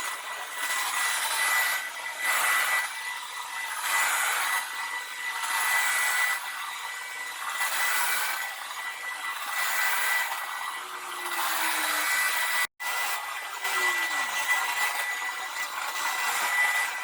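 Hoover Power Scrub Deluxe carpet washer running on its rinse setting, its suction motor drawing dirty water and detergent back up out of the carpet, with a steady high whine. The noise swells and eases about every two seconds as it is pushed back and forth over the carpet, and it cuts out for an instant near the middle.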